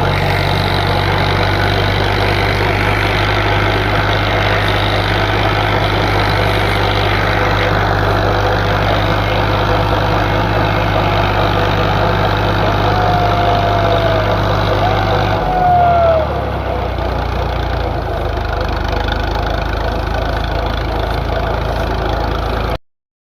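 FIAT tractor's diesel engine running steadily; about two-thirds of the way through, its note drops and it settles at a slower speed.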